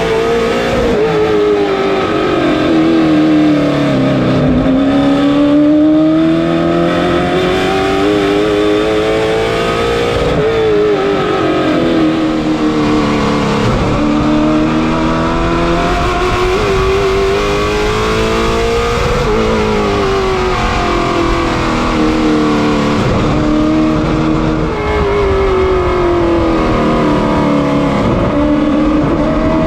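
Race car engine running hard, its pitch climbing for several seconds and then dropping, again and again, as it accelerates and backs off lap after lap around an oval track.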